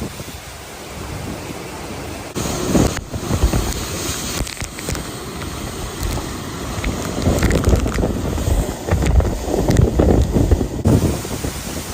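Strong typhoon winds gusting and buffeting the microphone, a loud rushing noise with heavy low rumbles that surge about two and a half seconds in and again through the second half.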